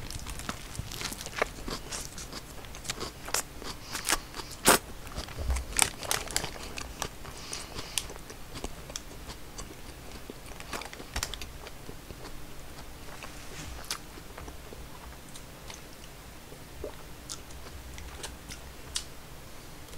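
A person chewing a big mouthful of a Burger King red king crab Whopper close to the microphone: soft crunching and wet mouth clicks, busiest in the first half and thinning out later.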